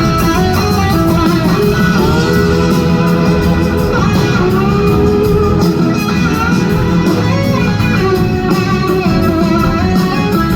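Live rock band playing a slow soul ballad, led by an electric guitar solo whose notes slide and bend over a steady bed of bass, drums and keys.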